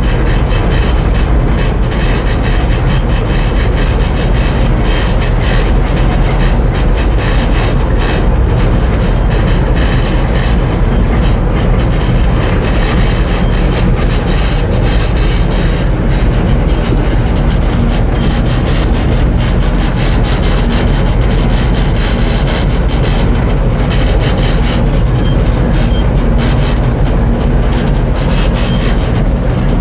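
Ship's main diesel engine, an Akasaka AX31R, running steadily under way on sea trial. It is a loud, even drone heaviest in the low end, with no change in speed.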